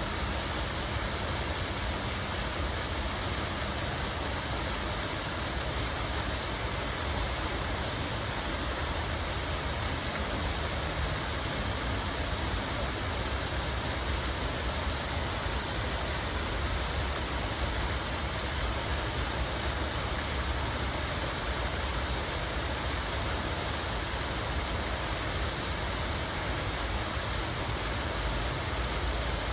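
Water falling and running steadily, an even rushing hiss with a deep low rumble underneath and no breaks.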